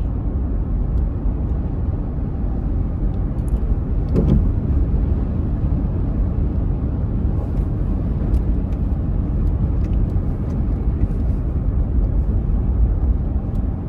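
Car driving on the road: a steady low rumble of tyre and engine noise, with a brief swell about four seconds in.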